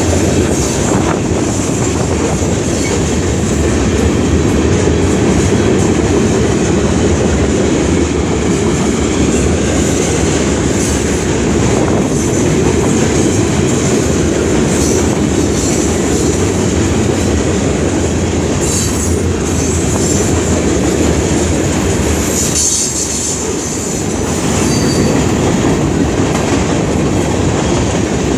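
Long intermodal freight train rolling past: a steady, loud rumble of steel wheels on rail with clickety-clack, and a few brief high wheel squeals about two-thirds of the way in.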